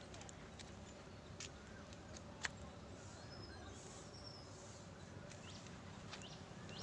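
Faint outdoor ambience with scattered short, sharp bird chirps over a steady low background hiss.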